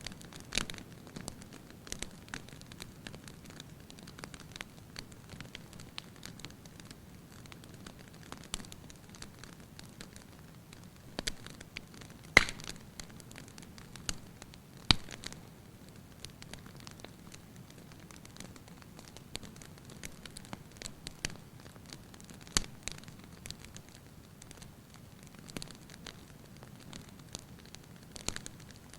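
Wood fire burning in a fireplace, crackling with scattered sharp pops over a low steady rush of flame. The two loudest pops come about halfway through.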